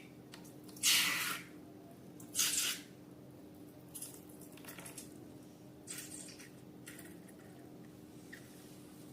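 Slime being squeezed and stretched by hand: a series of short, wet squelches, the first two loudest and the later ones fainter, over a faint steady hum.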